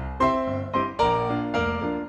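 Background piano music: a gentle melody of separate notes, each struck and then fading.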